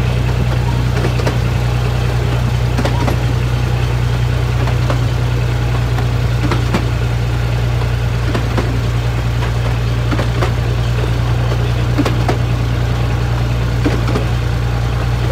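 Miniature railway train running along the track, heard from a carriage: a steady low drone with occasional clicks from the wheels on the rails.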